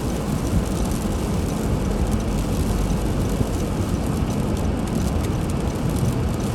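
A car driving: steady low road and engine rumble with a hiss over it.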